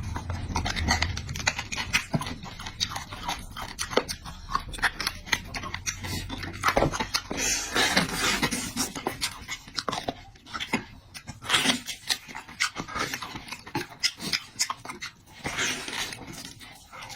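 Close-up eating sounds: wet chewing and smacking with irregular crunchy clicks, as food is bitten and chewed.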